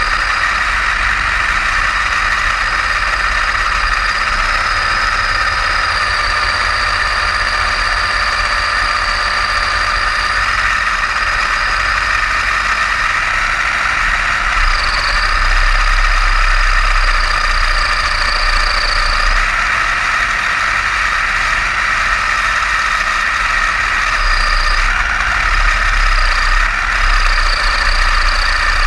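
Electric motor and gear drive of a Kyosho Blizzard DF-300 radio-controlled snowcat, converted from nitro, running with a steady whine that shifts up and down a little in pitch, over a low rumble.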